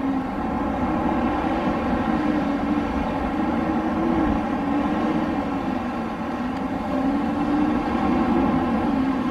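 Wind blowing steadily, with a low howling tone that slowly wavers up and down.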